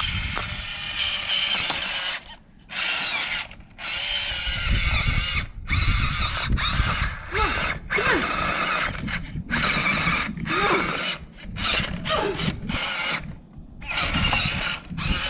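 RC crawler truck's electric motor and gear train whining in repeated throttle bursts, the pitch rising and falling, with short pauses between bursts as it works at a rock climb.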